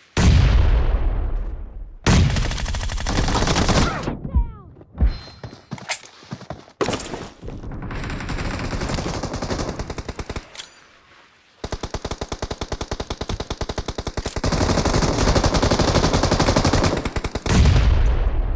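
Video-game automatic gunfire. It opens with a loud blast that dies away over about two seconds, then comes in short bursts of rapid shots, and from about two-thirds of the way through it turns into long, continuous rapid fire.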